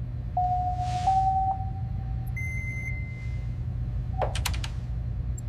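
Low, steady rumbling drone with electronic beeps over it: a held tone about half a second in that steps up slightly in pitch at about a second, then a higher sonar-like ping near the middle, and a few sharp clicks near the end.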